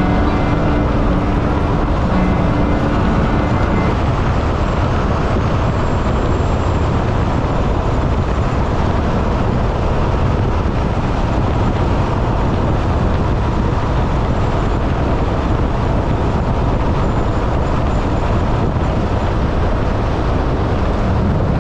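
Steady wind rush and road noise of a motorcycle riding at speed, an even, unbroken noise heaviest in the low end.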